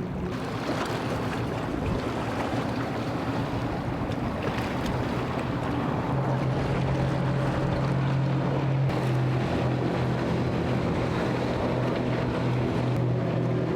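A boat's engine running steadily, its low hum growing stronger about halfway through, over the wash of waves and wind on the microphone.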